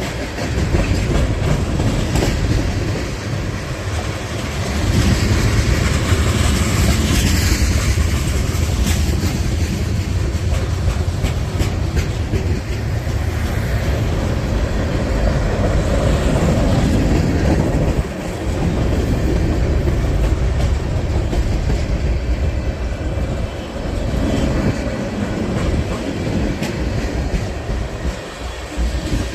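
Freight train cars rolling past close by, a steady loud rumble with wheels clacking over rail joints.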